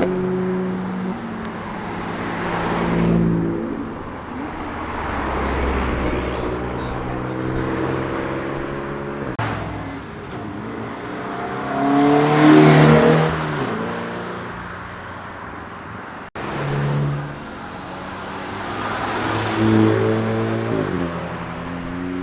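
Several cars passing one after another, their engines accelerating and fading as each goes by. The loudest pass is about halfway through. The sound breaks off abruptly once, and then another car comes up.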